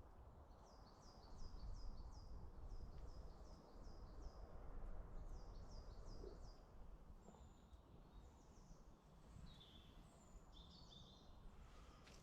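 Faint woodland birdsong: a songbird repeats a quick run of short, high, falling notes, pauses and repeats it, then gives varied chirps later. A low, steady background rumble lies underneath.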